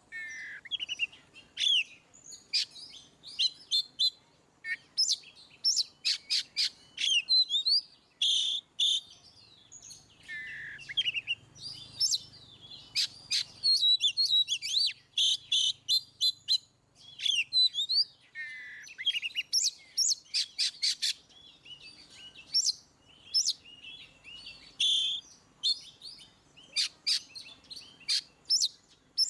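Oriental magpie-robin (kacer) singing loudly and continuously. The long, varied song mixes clear sweeping whistles with rapid runs of short, sharp notes, in phrases broken by brief pauses.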